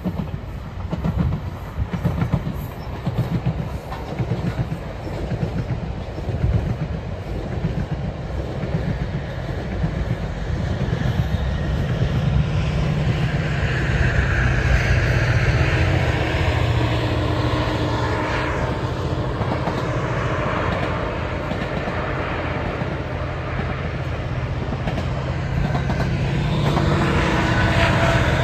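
GO Transit push-pull commuter train passing: bilevel coaches with wheels clacking rhythmically over the track, then the steady drone of the diesel locomotive pushing at the rear, growing louder near the end as it draws closer.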